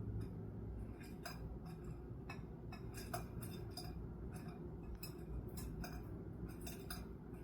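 Budgie pecking and nudging a small ball around, giving a string of irregular light clicks and taps.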